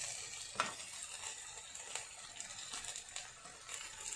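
Sliced vegetables frying in oil in a stainless steel kadhai, a faint steady sizzle. A few light clicks and taps sound as capsicum strips drop into the pan.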